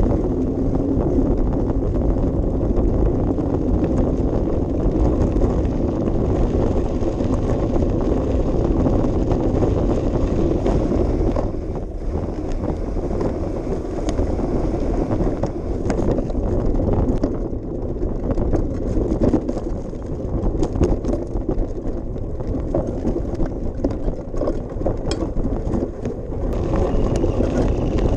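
Bicycle riding along a path: steady tyre rumble with scattered clicks and rattles from the bike, and wind buffeting the microphone.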